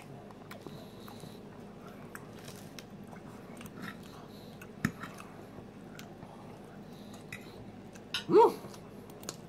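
Faint close-up chewing and mouth sounds of a person eating a mouthful of salad, with a small click about five seconds in. A short vocal sound of enjoyment comes near the end.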